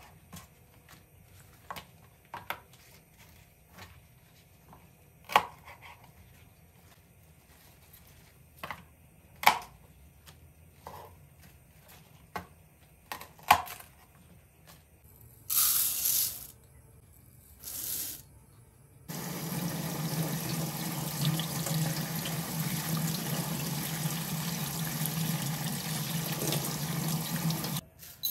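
Water tap running into a sink: two short bursts, then a steady flow for about nine seconds that is shut off abruptly near the end. Before that come scattered light knocks and clicks of things being handled.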